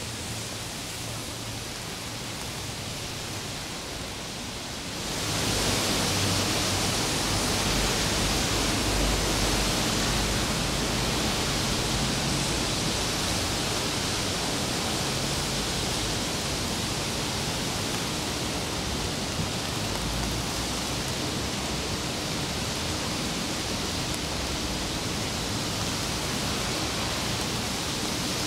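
Steady hiss of rain falling in a city street, with a low rumble underneath. It gets noticeably louder and brighter about five seconds in.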